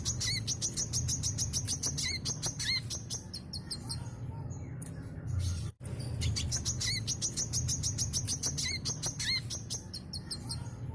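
Brown-throated sunbird singing a fast, unbroken run of high, thin chirps and trills. The song cuts out briefly a little past halfway, then the same phrase sequence starts again.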